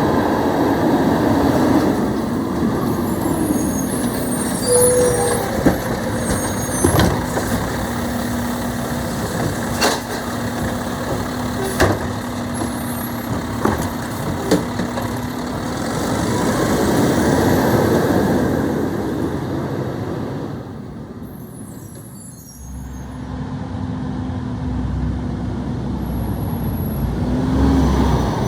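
Garbage truck running, its engine swelling loudly twice, with a steady hum in between and several sharp knocks. The sound dips and changes abruptly after about twenty-two seconds.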